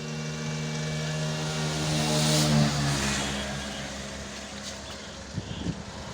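A car drives past, its engine hum and tyre noise growing louder to a peak about two and a half seconds in, then fading away as it moves off.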